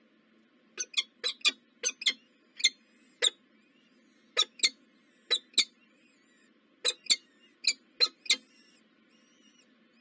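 Small bird chirping: a run of short, sharp, high chirps, often in quick pairs, with pauses of about a second between the groups.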